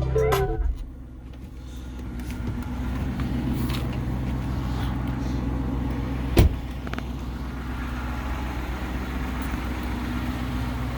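2013 Chrysler 300C idling on a cold start, its exhaust with Dynomax Race Bullet mini resonators giving a steady low drone that grows louder a couple of seconds in. One sharp knock is heard about six seconds in.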